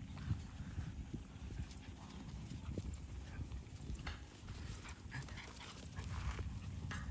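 Faint, irregular taps of animal footsteps on a hard surface over a low, steady rumble.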